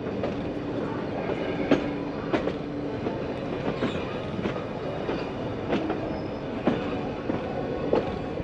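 Metre-gauge Nilgiri Mountain Railway train running along the track, its wheels giving irregular clacks over rail joints and points. A faint steady whine comes in near the start and again briefly later.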